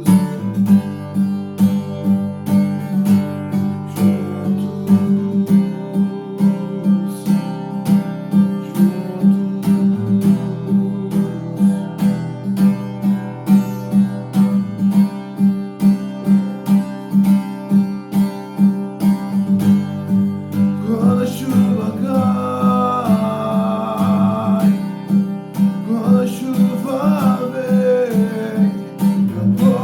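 Acoustic guitar strummed in a steady rhythm, with a voice singing over it in the last third.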